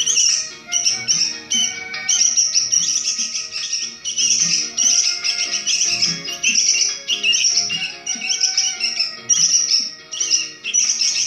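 A songbird singing continuous rapid chirping phrases, over background music.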